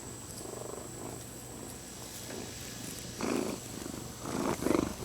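Domestic cat purring close by, a fast steady rumble with two louder swells in the second half.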